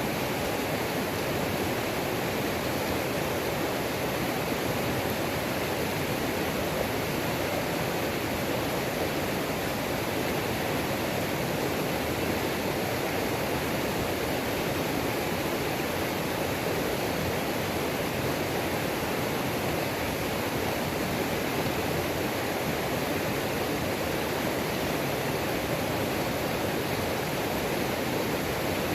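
Waterfall on a mountain creek: water cascading over rocks in a steady, even rush.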